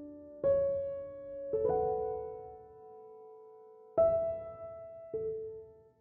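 Slow, gentle solo piano music, with sparse chords that each ring out and fade before the next.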